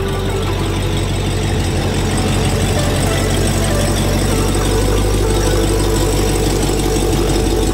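A car engine idling steadily, getting a little louder about two seconds in.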